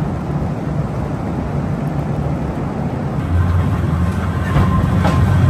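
Train running on rails: a steady low rumble that grows louder, with a run of clicks and a faint whine coming in near the end.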